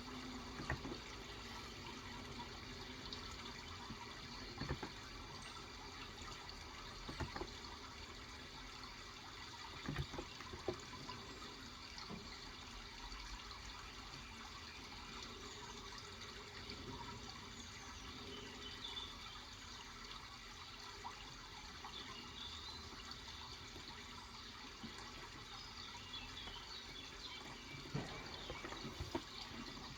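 Steady running water, with a few isolated clicks scattered through it from keys of a Cox Endeavor electro-capacitive keyboard pressed now and then, and faint bird chirps around the middle.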